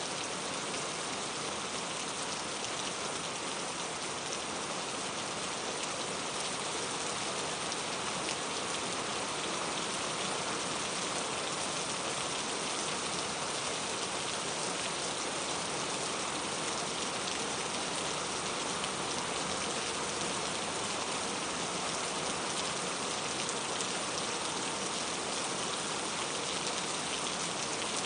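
Steady rain falling on a surface, an even hiss of many small drops with no pauses or changes.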